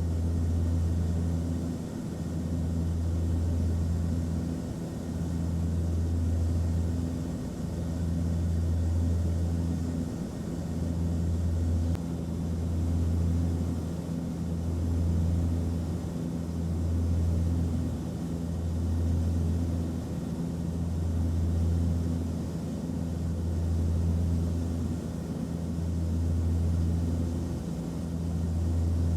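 Airplane cabin noise in flight: a steady rushing drone with a strong low hum that swells and fades about every two seconds.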